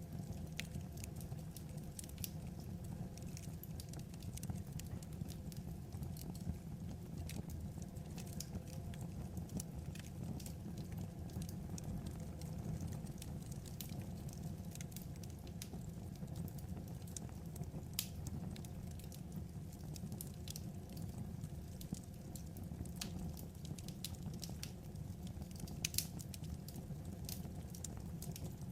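Wood fire crackling steadily, with scattered sharp pops and snaps over a low steady rumble; a few louder pops stand out, one a little past halfway and a couple near the end.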